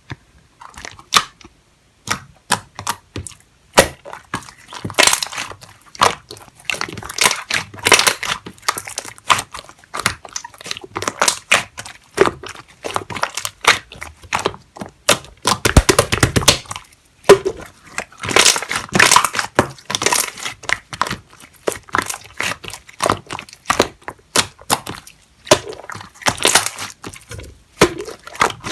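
Slime being squeezed, pressed and stretched by hand, giving a dense run of irregular wet pops and crackles, with a heavier thump about halfway through.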